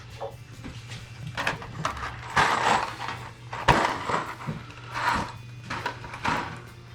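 Irregular scraping, knocking and metallic clinks of hand tools and hardware while a wall-mount bracket is screwed on, over a low steady hum.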